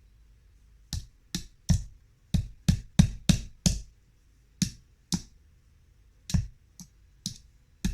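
Hammer driving a nail into a wooden beehive box: about fourteen sharp strikes in uneven runs, beginning about a second in.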